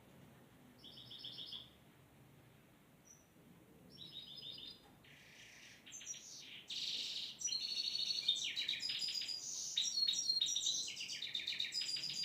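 Small songbirds chirping: two short high trills in the first few seconds, then from about halfway a dense run of quick, overlapping chirps and trills.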